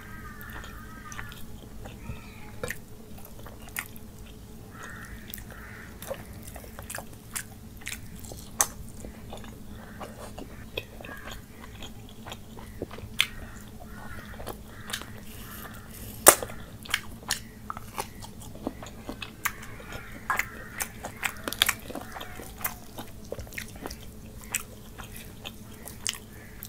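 Close-miked mouth sounds of a man eating rice and curry by hand: wet chewing with many irregular sharp lip smacks and clicks, one much louder smack about two thirds of the way through.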